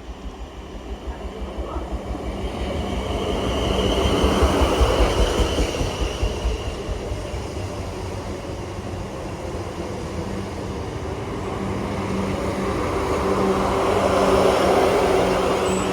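Passenger train moving through the station. Its wheels clack in a regular rhythm over the rail joints, over a steady hum. It is loudest about four to five seconds in and again near the end.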